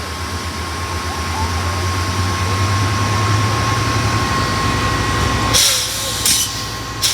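Diesel train engine running with a low pulsing throb that grows louder over the first few seconds, then three short hissing bursts about a second apart near the end.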